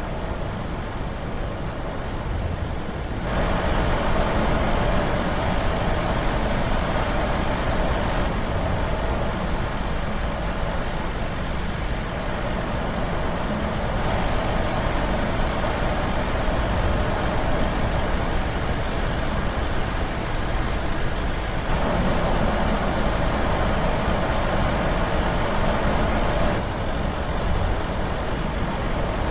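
Heavy battery-electric truck driving, with steady road and tyre noise and no engine note. The sound changes abruptly several times, louder in some stretches than others.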